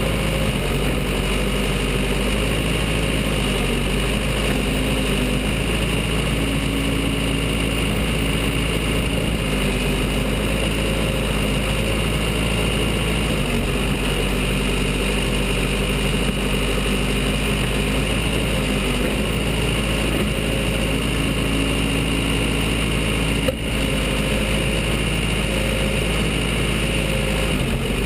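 Case 580 Super L backhoe's four-cylinder diesel engine running steadily, its pitch shifting slightly now and then. A single sharp click comes about 23 seconds in.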